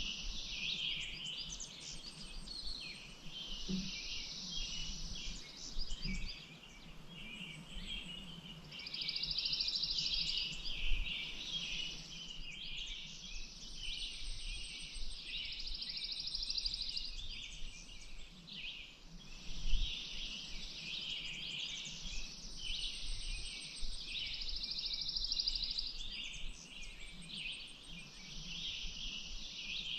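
Many small birds chirping and singing together, with repeated fast trills lasting a few seconds each, over a faint low rumble. There are a couple of brief low thumps, about a third and two thirds of the way through.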